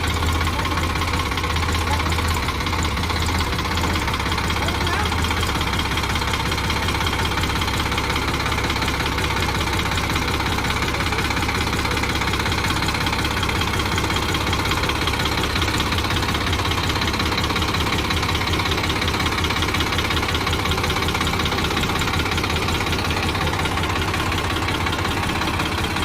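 Tractor engine running steadily with an even, low chug.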